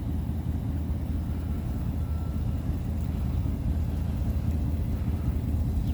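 Motorcycle engine running steadily under way, a deep, even sound with no change in pitch.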